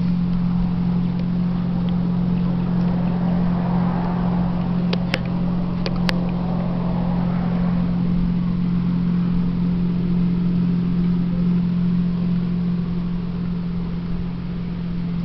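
Steady low drone of a boat's engine on the river, swelling a little in the middle, with a few sharp clicks about five to six seconds in.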